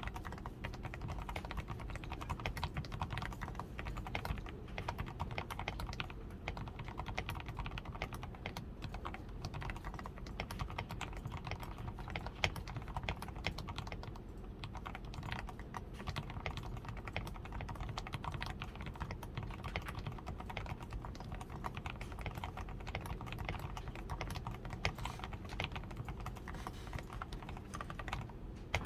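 DAREU A87 Pro mechanical keyboard being typed on steadily: a dense, unbroken run of keystroke clicks, with one louder stroke about twelve seconds in. The board is modded for its sound: switches fully lubed with Krytox 105, PCB tape mod, foam added to the switches, lubed stabilizers and XDA keycaps.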